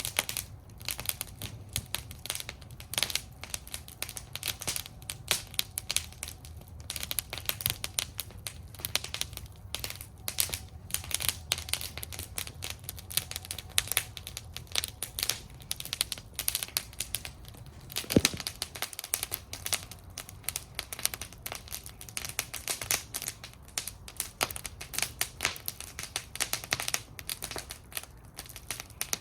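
Wood campfire in a fire bowl crackling with dense, irregular snaps and pops over a low steady flame rumble. One sharper, louder pop comes about two-thirds of the way through.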